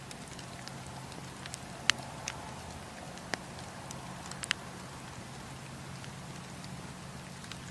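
Wood fire burning with a steady low rush, the logs crackling and giving a few sharp pops, the loudest about two seconds in and another pair near four and a half seconds.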